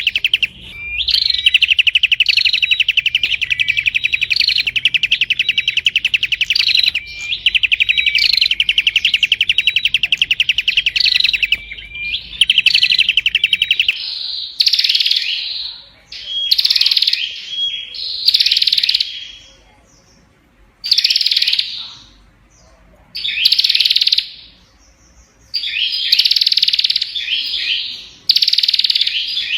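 Prinia (prenjak) singing: long, very rapid trills lasting several seconds each through the first half, then shorter bursts about a second long with brief pauses between.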